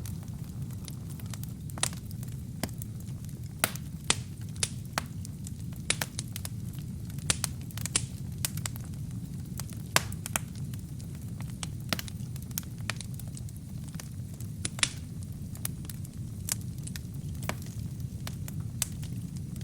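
Wood fire burning in a fireplace: a steady low roar of flames with sharp, irregular crackles and pops from the burning wood and kindling.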